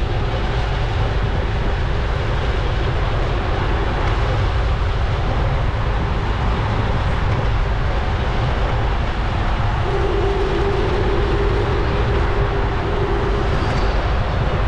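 Wind rushing over a GoPro's microphone during a bicycle ride, a steady loud rumble with hiss above it. A steady hum joins about ten seconds in.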